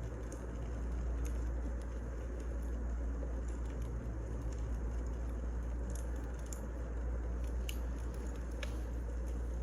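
Wood fire burning: a steady low rumble with scattered sharp crackles and pops of the burning logs, more of them in the second half.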